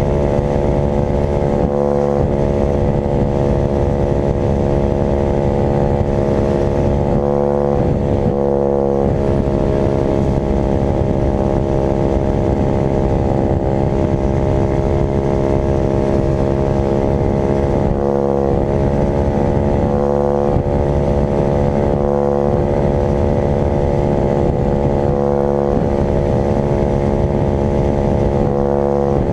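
Dirt bike engine running hard at a steady, high pitch, with brief dips in the note about two seconds in, around seven to nine seconds, and again near eighteen, twenty and twenty-five seconds.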